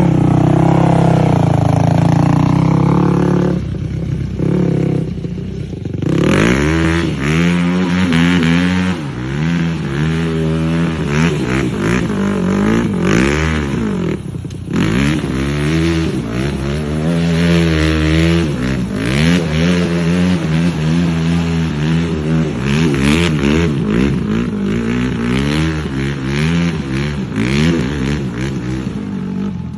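Quad bike engine running hard, its pitch rising and falling over and over as it revs through repeated donuts. It eases off for a couple of seconds a few seconds in, then settles into steady up-and-down revving about once a second.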